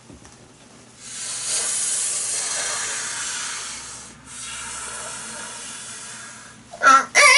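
A man's vocal imitation of a xenomorph: two long breathy hisses, then a loud, shrill, wavering screech starting near the end.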